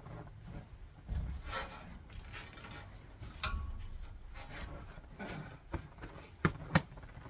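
Uneven rustling and scraping with a few low knocks and two sharp clicks near the end, from hay being handled out to horses.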